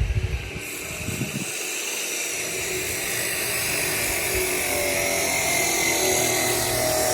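A power tool cutting building materials: a steady whining hiss that slowly grows louder.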